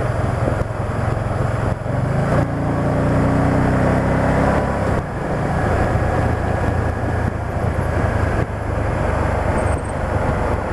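Can-Am Spyder three-wheeled motorcycle running at road speed, engine note under steady wind and road noise; around two seconds in the engine pitch climbs for a few seconds as it accelerates.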